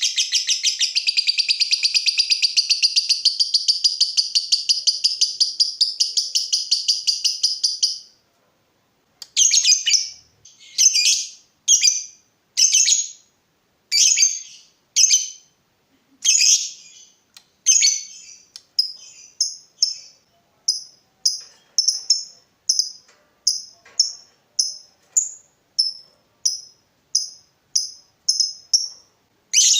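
Lovebird singing: a long, fast, unbroken high-pitched chattering trill, then after a short pause a string of short sharp chirping bursts, about one a second at first and quickening to about three every two seconds toward the end.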